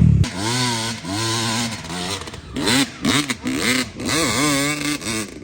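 Off-road engine revving in about seven throttle bursts, its pitch rising and falling with each blip.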